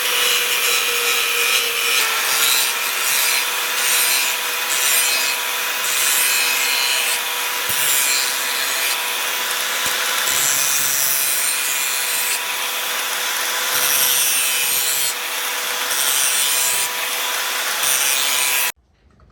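A small electric power tool running with a steady motor hum while its abrasive rasps against material in strokes about a second long. The sound cuts off abruptly near the end.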